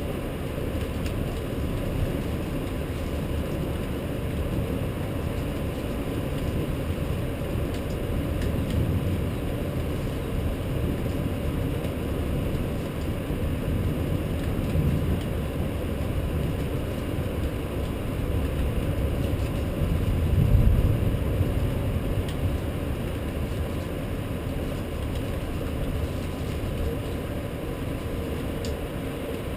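Low, steady rumble of a rainstorm, swelling louder for a few seconds about twenty seconds in.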